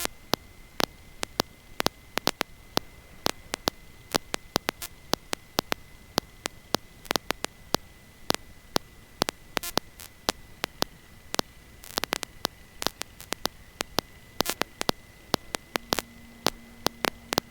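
Crackling static: sharp irregular clicks, several a second, over a hiss, with a steady high-pitched whine running under it and a lower hum joining near the end. This is interference on the aircraft's intercom audio feed rather than the engine itself.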